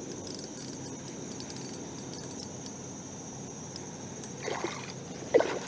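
Steady low outdoor noise on a kayak, with a few short knocks and rattles near the end as fishing gear is handled while a hooked fish is brought in.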